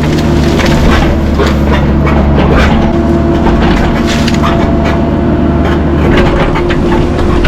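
Heavy machine's diesel engine running steadily under load, with repeated cracks and snaps of wood as brush and downed trees are handled.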